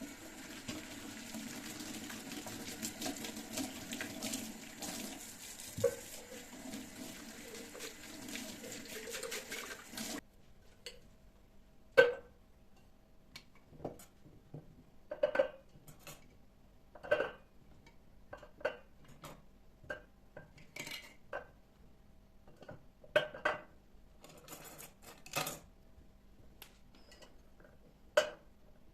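Water running from a tap with dishes clinking under it, shut off about a third of the way through. After that come separate clinks and knocks of dishes and cutlery being handled, every second or two.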